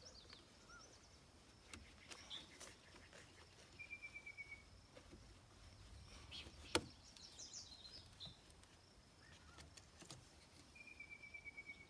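Near silence with faint birds chirping, including a short rapid trill heard twice. One sharp click about seven seconds in.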